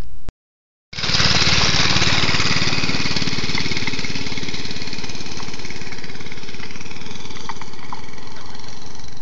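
Motovox mini bike's small single-cylinder engine running steadily with an even pulsing beat. The sound cuts out to dead silence briefly near the start, then the engine comes back in suddenly about a second in.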